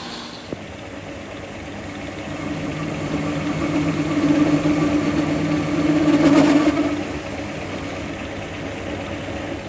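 A machine or engine running steadily with a hum. It grows louder a few seconds in and eases off again about seven seconds in.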